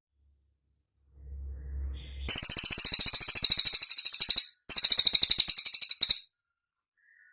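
Cililin bird singing: two long, very rapid, high-pitched trills, the second following after a short break, preceded by a brief low rumble.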